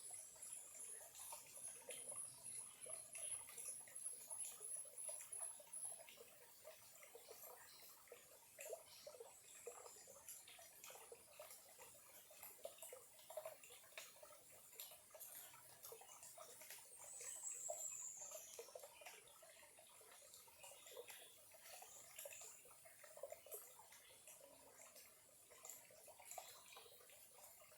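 Faint trickle of a small shallow stream, a steady scatter of little water plinks and gurgles. A high-pitched pulsing trill runs for the first six seconds, and a short falling high call sounds about seventeen seconds in.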